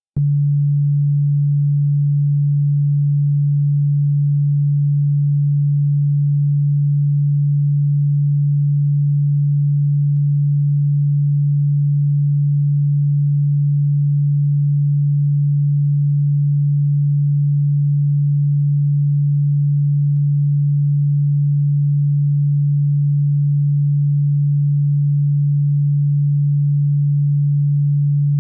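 An electronically generated pure tone, sold as a cockroach and ground-bug repellent sound, held at one low, steady pitch without change. It is low and plainly audible, not ultrasonic.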